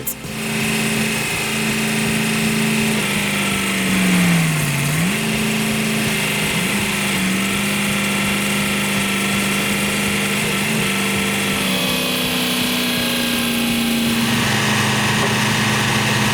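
Excavator engine running a stump splitter attachment. Its steady note sags in pitch and recovers about four to five seconds in, dips briefly a couple more times, and changes character near the end.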